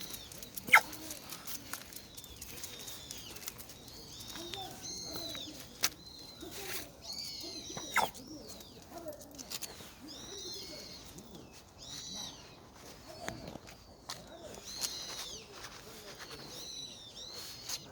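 Small birds chirping again and again in short, high, arched calls, with faint voices and a few sharp clicks.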